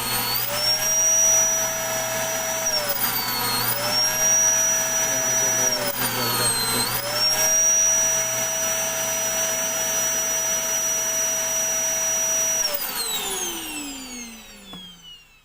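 Vacuum cleaner motor running on a test after repair, a steady high whine. Its pitch sags and recovers twice, then it is switched off about thirteen seconds in and winds down with a falling whine.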